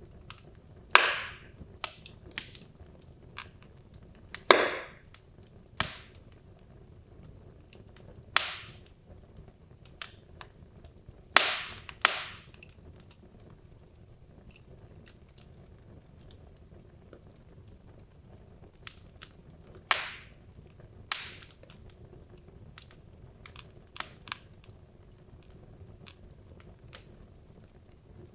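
Wood logs burning in a fireplace, crackling with irregular sharp pops and snaps, several loud ones with short hissing tails, over a faint steady rush of the flames.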